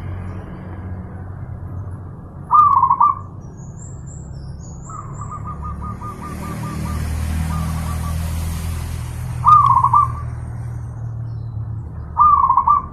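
Zebra dove (perkutut) cooing: three loud, short warbling coos, at about two and a half seconds, near the middle and near the end, with a quick run of soft repeated notes between them. A steady low rumble runs underneath and swells in the middle, and a few faint high chirps come from another small bird.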